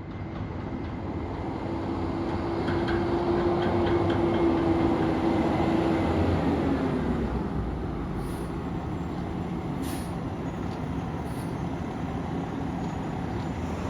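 Garbage truck running with a steady rumble and a held whine that drops in pitch about six seconds in, followed by a few brief high hisses.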